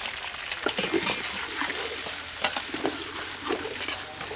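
Whole river prawns sizzling in hot oil with fried garlic in a metal pan, stirred with a metal spoon that scrapes the pan and clinks against it a few times.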